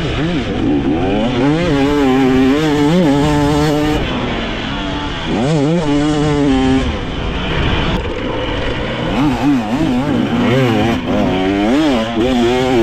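Dirt bike engine revving up and down over and over as the throttle is opened and closed on a motocross track, with brief easings off between bursts and a steady rush of wind noise underneath.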